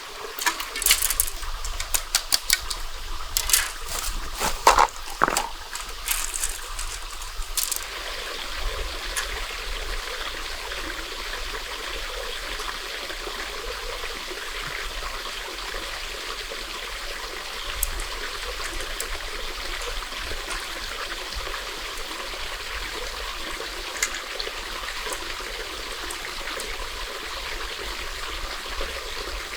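Water trickling and flowing steadily, like a small stream. For the first several seconds a run of sharp clicks and knocks sounds over it.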